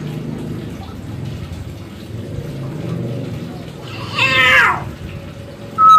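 Hill myna giving one loud call, falling in pitch, about four seconds in, over a low murmur of background noise.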